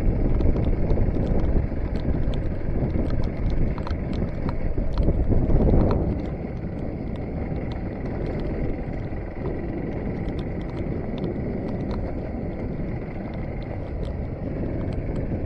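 Motorcycle engine running while riding over a rough road, with scattered clicks and rattles. It is louder for the first six seconds or so, then settles to a steadier, slightly quieter run.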